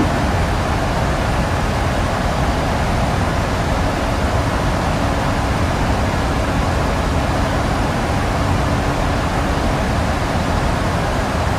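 Boeing 737-800 in climb: a steady, even rushing of engine and airflow noise, with a faint steady hum for a few seconds in the middle.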